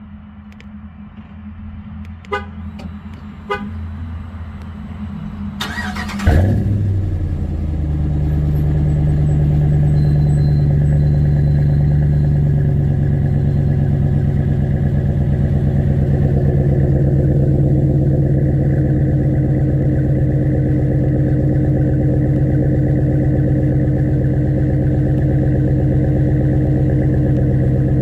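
Dodge Ram 1500 Hemi V8 cold start through a Flowmaster exhaust: the starter cranks briefly about six seconds in, the engine catches with a loud burst, then settles into a steady, droning fast idle. A couple of faint clicks come before the crank.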